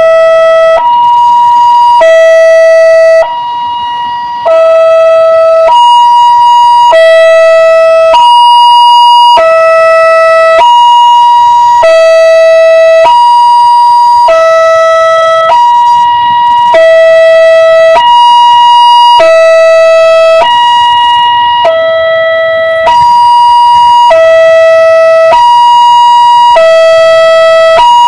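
Loud two-tone hi-lo siren, alternating evenly between a low and a high note, each held about two-thirds of a second, with a brief quieter dip about three seconds in.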